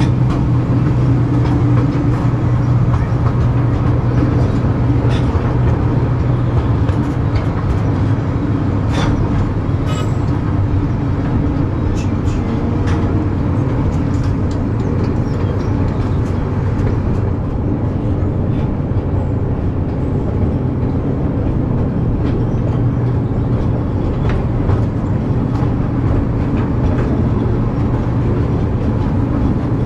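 Park ride train running steadily, heard from an open passenger car: a constant low engine hum under the noise of the cars rolling along, with a scatter of sharp clicks and rattles about a third of the way in.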